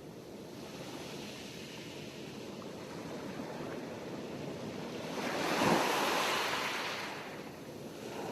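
Sea waves washing ashore in a steady hiss of surf. One wave swells about five seconds in, breaks near six seconds and fades out.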